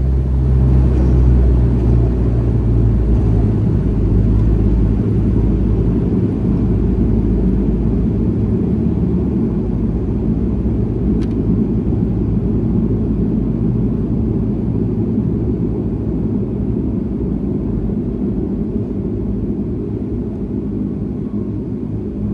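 Airliner cabin noise heard from a passenger seat: a steady low rumble of engines and wheels, with low humming tones that fade out about eight seconds in while the overall level slowly drops as the aircraft slows after landing.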